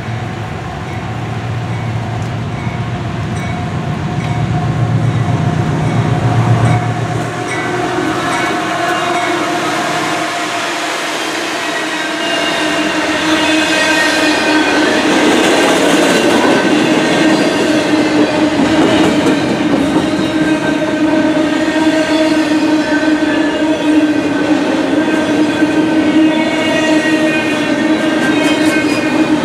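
CSX freight train passing close by. The diesel locomotives give a low engine rumble for the first several seconds. Then a long string of double-stack intermodal well cars rolls past with a steady metallic ringing from the wheels on the rails.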